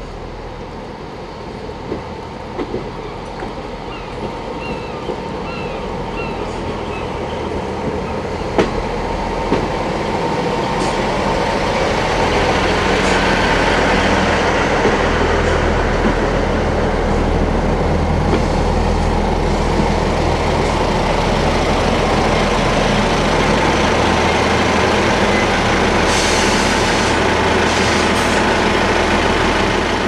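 A train running close by, growing louder over the first ten seconds or so and then holding steady, with a low steady drone and a few sharp clicks.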